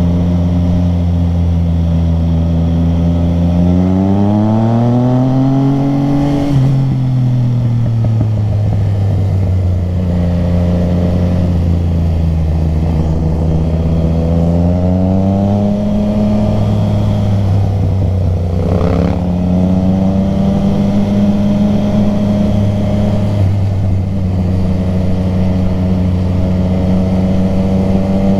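Motorcycle engine running under way, heard from on the bike. Its pitch climbs under throttle a few seconds in and drops abruptly at about six and a half seconds, climbs again around the middle, and dips briefly near nineteen seconds before holding steady.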